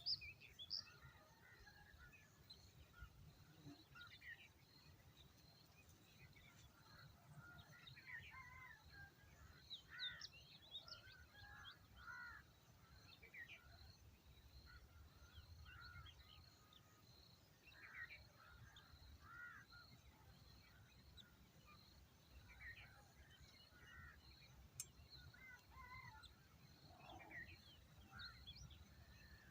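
Faint birds calling on and off: short, arched calls throughout, over a steady high pulsing note and a low rumble.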